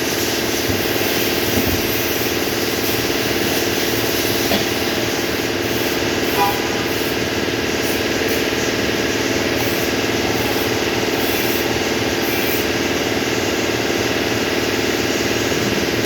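An engine running steadily at idle, with a few faint knocks over it.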